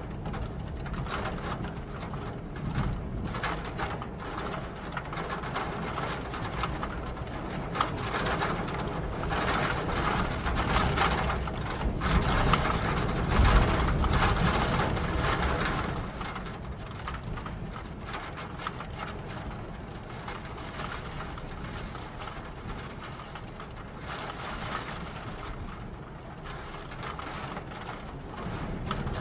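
Rain falling, a dense patter of drops, swelling louder for several seconds in the middle.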